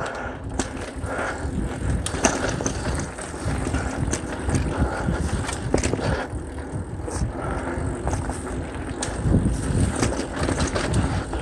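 Mountain bike riding fast down a dirt trail: tyres rumbling over the ground and the bike rattling and knocking over bumps.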